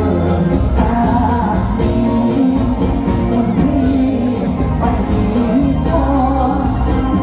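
Live mor lam / luk thung band music amplified over a PA, with a steady drum beat, a heavy bass line and a wavering lead melody.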